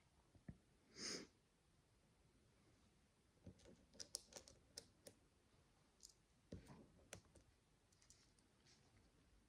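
Faint clicks of tiny plastic micro building bricks being handled and pressed together, in small clusters, with a short soft rustle about a second in.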